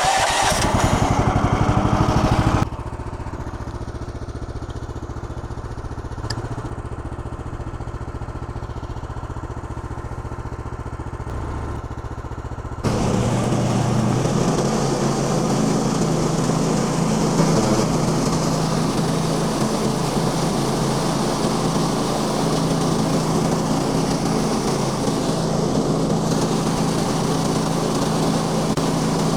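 Small gas engine of a Woodland Mills HM130 Max bandsaw sawmill cold-started: it runs fast for the first two and a half seconds, settles to a lower idle, then about 13 seconds in is throttled up and runs steadily at higher speed.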